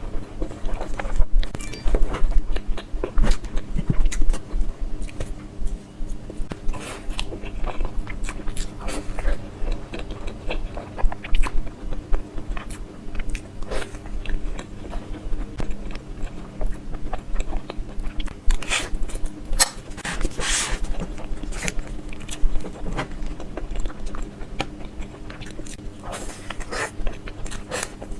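Close-up eating sounds: someone biting into and chewing an ice cream mille crêpe cake, with many irregular soft mouth clicks and smacks.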